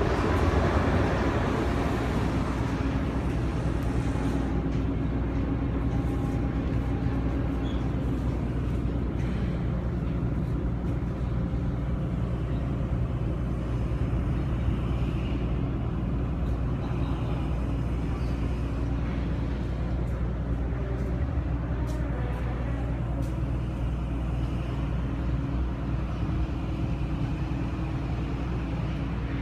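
Engine drone, running steadily with a low, even hum and little change.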